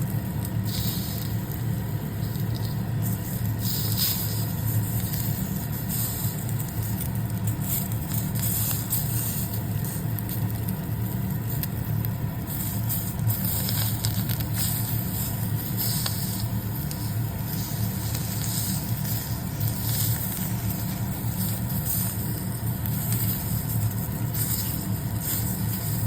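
Hot link sausage sizzling and spattering in a hot frying pan over medium-high heat, with irregular crackles over a steady low hum.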